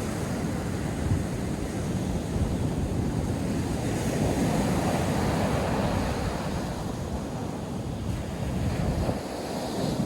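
North Sea surf breaking and washing up the beach, a steady rush that swells and eases, with wind buffeting the microphone.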